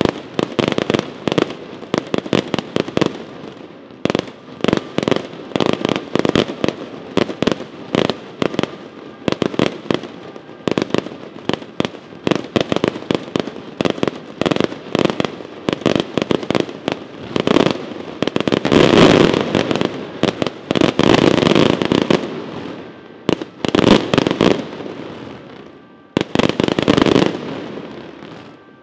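Aerial fireworks display: a rapid string of sharp bangs from shells bursting overhead, several a second. About two-thirds of the way through they thicken into a dense, continuous barrage, then ease off briefly before more bangs near the end.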